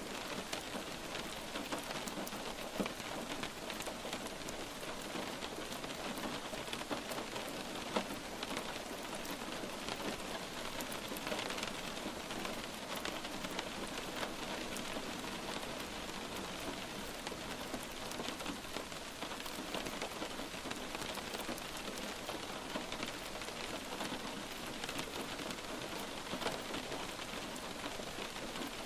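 Light rain falling steadily, with many individual drops ticking on a surface.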